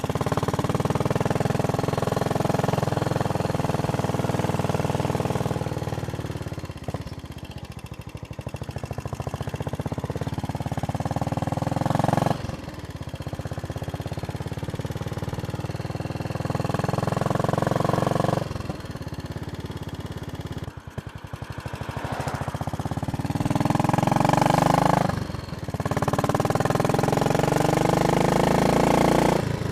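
Royal Enfield Bullet Machismo 500's single-cylinder engine running under way. Its revs climb and then drop back sharply several times, as the bike pulls through the gears.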